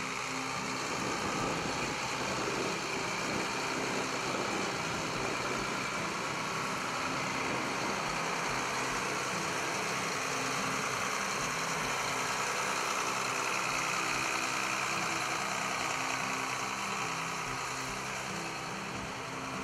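Diesel engine of a John Deere 7710 tractor, a six-cylinder turbo diesel, running steadily at an even idle.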